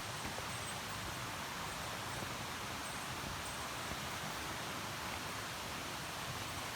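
Mountain stream rushing steadily over rocks in its shallows: a continuous even hiss of water.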